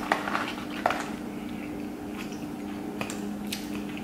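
Close-miked chewing and mouth sounds from eating french fries, with a few sharp clicks and crackles, the loudest about a second in, over a steady low hum.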